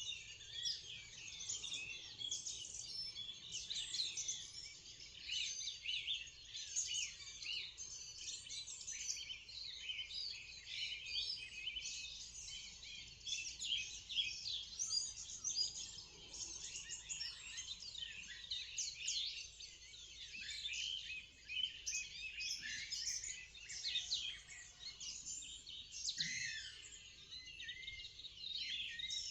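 Dawn chorus: many songbirds singing and chirping at once, a dense, continuous mix of overlapping short calls and trills.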